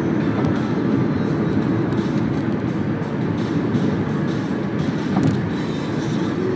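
Steady road and engine rumble inside the cabin of a moving Toyota Camry 2.4.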